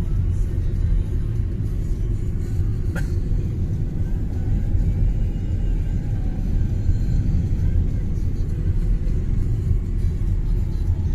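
Steady low rumble of a car driving, its tyres on a snowy road and its engine running, with one short click about three seconds in.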